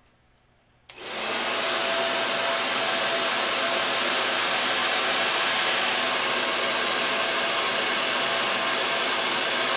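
Hair dryer switched on about a second in, then running loud and steady.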